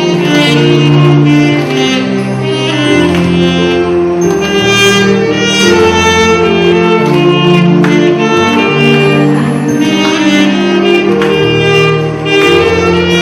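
Saxophone playing a slow melody of sustained notes over a musical accompaniment with strings and a bass line.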